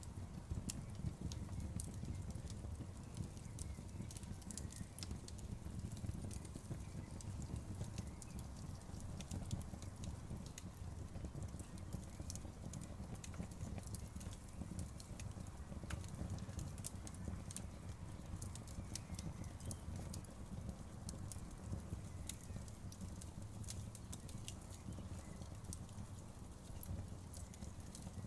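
Campfire burning: scattered sharp crackles and pops of burning wood over a steady low rumble of the flames.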